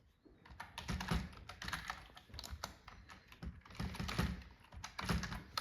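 Rapid light clicks and taps in uneven clusters, like typing on a keyboard.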